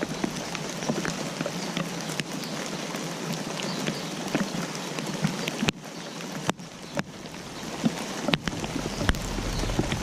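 Rain falling steadily, with many individual drops ticking and splatting on surfaces over an even hiss, and a few louder drop strikes.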